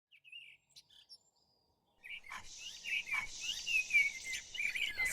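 Birds chirping and singing: a few isolated chirps, then from about two seconds in a dense chorus of many overlapping calls.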